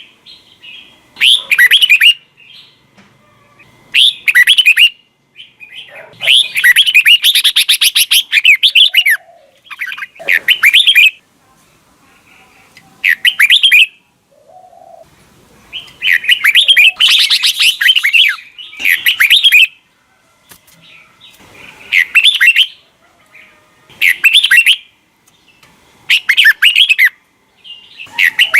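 Red-whiskered bulbul singing: short phrases of bright whistled notes about every two seconds, with two longer runs of rapid notes along the way.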